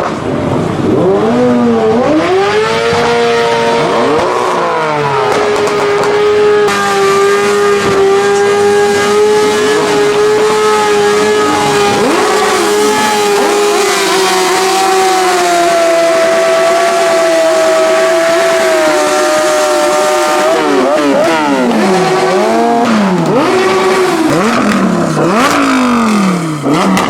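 Car engine held at high revs for a long stretch, its note steady and slowly drifting, with quick engines revving up and down around it near the start and again in the last few seconds.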